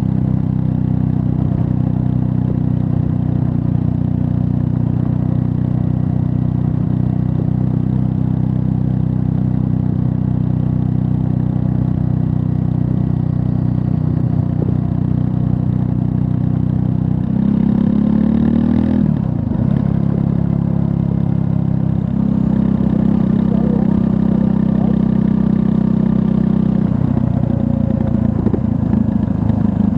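A 2024 Triumph Scrambler 400 X's 398 cc liquid-cooled single-cylinder engine running at steady revs under way. A little past halfway the engine note shifts in pitch and briefly dips, then holds steady again. It changes once more near the end.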